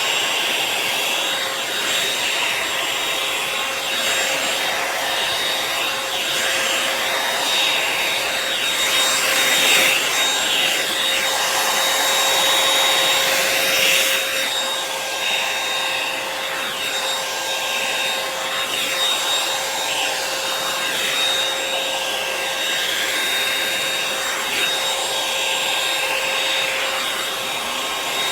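Revlon One-Step hot-air dryer brush running steadily with a whining fan tone, while its bristles swish and rub through hair as it is drawn along.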